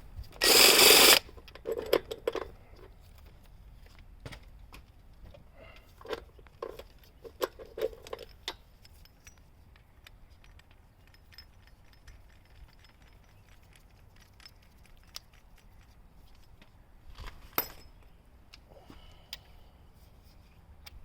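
A hand socket ratchet clicks in a short loud burst at the start, followed by scattered metallic clinks, taps and knocks of hand tools against metal, with a louder cluster about six to eight seconds in and a sharp knock near the end.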